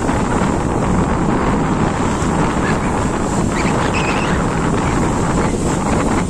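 Strong wind buffeting the microphone, a steady rumbling rush, with sea waves washing in underneath.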